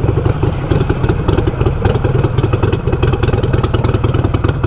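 Harley-Davidson Iron 883's air-cooled V-twin running steadily on the move, with an even, rapid pulsing beat.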